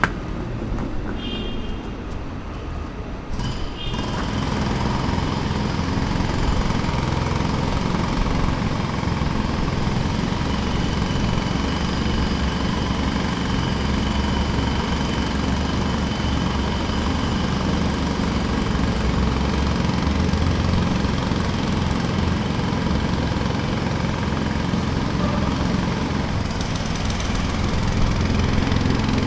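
Jackhammer hammering continuously in rapid strokes with a steady engine-like drone. It starts up loud about four seconds in, after a quieter opening.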